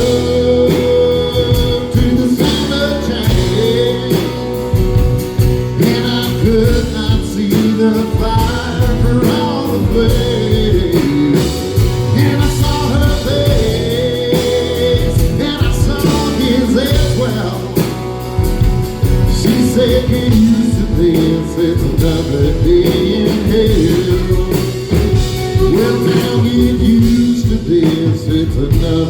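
Live country band playing a song, with a wandering lead melody over bass and drums.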